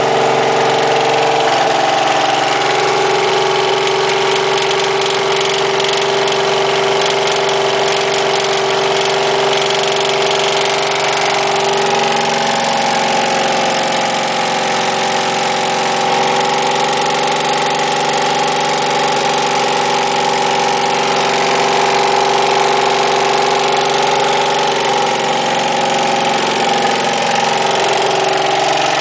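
Freshly rebuilt engine running steadily on its break-in run, its note shifting about two seconds in and again about twelve seconds in.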